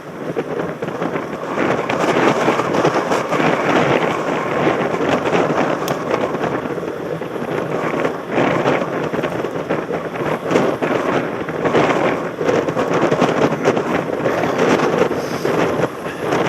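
Wind buffeting a helmet-mounted camera's microphone, mixed with a constant clatter of rattles and knocks as the mountain bike rolls over rough ground.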